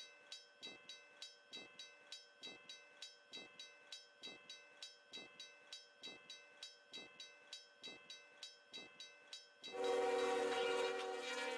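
Level-crossing bell ringing steadily, about two strokes a second. Near the end a locomotive horn sounds, louder than the bell, as the snow-plowing train passes.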